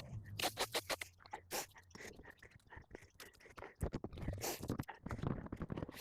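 An irregular run of short scrapes and crunches, dense at first, sparser around the middle, then picking up again.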